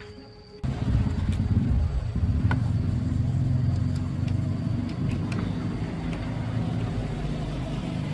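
Motorcycle engine running steadily, coming in suddenly about half a second in.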